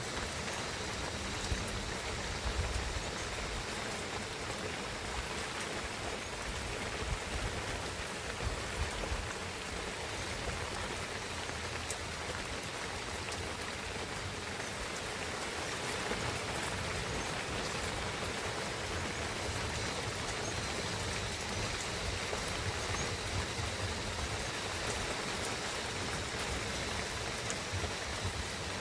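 Steady rain falling through a pine forest: an even hiss of rain with scattered individual drops ticking sharply over it.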